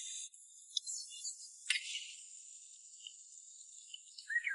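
Faint high-pitched insects chirping, with a single sharp click about a second and a half in.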